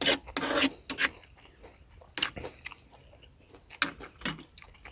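A person chewing and eating with wet mouth smacks and bites at irregular intervals, over a steady high-pitched chirring of insects.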